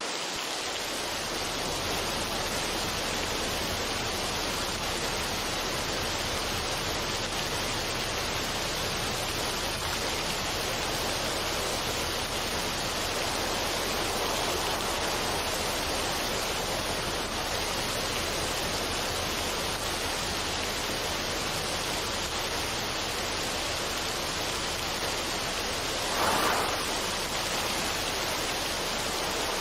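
Steady, even rushing noise with no tune or rhythm, rising briefly in a louder swell near the end.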